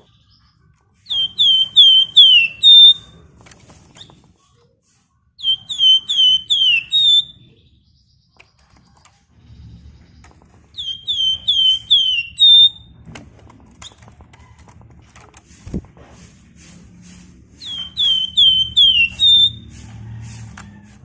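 Flamboyan (wergan Jawa) songbird singing four phrases, each a quick run of four or five high, falling whistled notes ending on a short held note, repeated every four to six seconds. A low hum runs under the second half, with a single thump about two-thirds of the way through.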